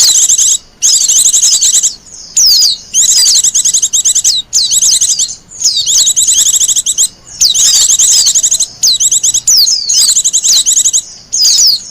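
Wild white-eye (pleci) singing: loud, fast, high-pitched twittering phrases about a second long, repeated again and again with short pauses between.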